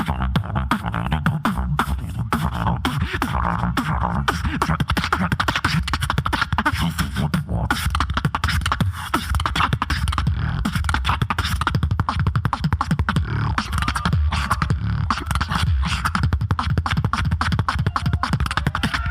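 Solo beatboxer performing live into a microphone: a fast run of vocal clicks and snare-like hits over a continuous deep bass line.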